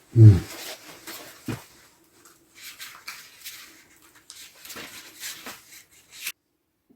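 A loud thud, a second knock about a second and a half in, then irregular rustling and crackling that stops suddenly near the end: the handling and lighting of a wood stove fire that is slow to catch.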